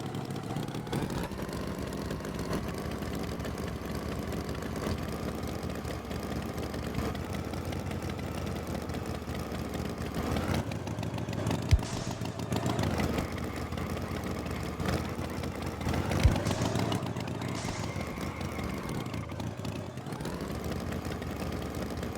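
Engine running steadily at idle, with a few slight rises and falls in pitch and two sharp knocks, about twelve and sixteen seconds in.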